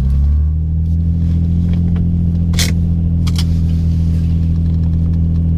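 Twin-turbocharged V6 engine of a 2005 Infiniti G35 coupe running, its note dropping in pitch at the start and then holding steady. A brief sharp noise sounds about two and a half seconds in.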